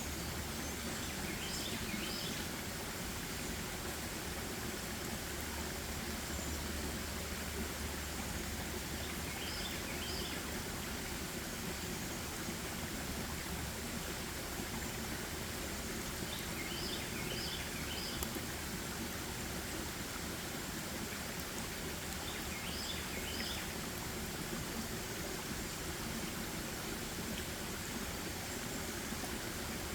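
Steady rushing of a stream, with a bird singing a short phrase of a few quick high notes five times, roughly every six to eight seconds.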